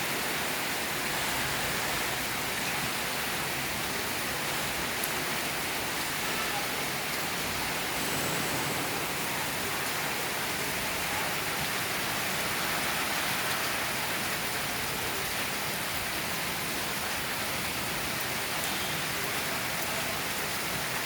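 Heavy, steady rain falling and pattering on surfaces and leaves.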